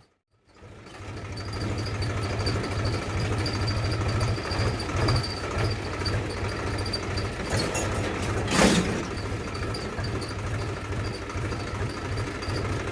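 Small motor of a miniature DIY farm machine running steadily, with a pulsing low hum and a faint pulsing whine. It comes in after a short gap near the start, and there is one brief louder rasp a little past halfway.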